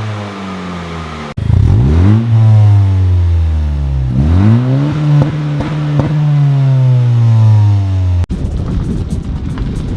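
Car engine with a new aftermarket exhaust being revved: the pitch jumps up twice and then slowly sinks, in short clips joined by abrupt cuts. After the last cut, about eight seconds in, a rougher, noisier engine sound.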